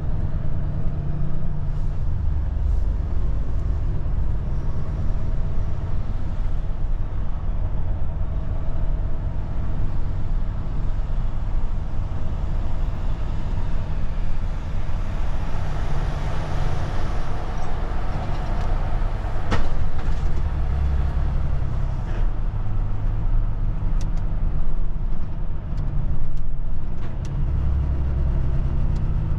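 Volvo truck's diesel engine running steadily, a low rumble, with a hiss that swells and fades in the middle and one sharp click about twenty seconds in.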